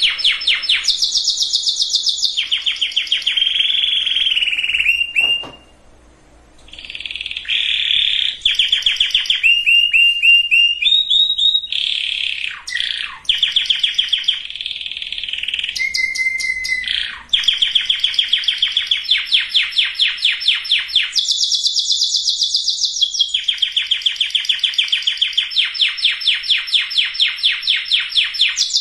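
Domestic canary singing: fast trills of rapidly repeated high notes, switching to a new trill every second or two, with a few falling slurred notes between them and a short break about five seconds in.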